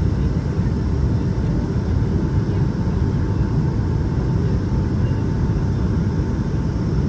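Steady low rumble inside the cabin of a Boeing 757-200 with Pratt & Whitney PW2000 engines, heard from a rear economy seat, with a faint steady high tone over it.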